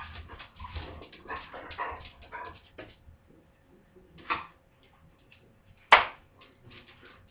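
Two pet dogs, a golden retriever and a Shiba Inu mix, playing together: a quick run of short scuffling sounds for about three seconds, a short dog sound about four seconds in, and a single sharp knock about six seconds in.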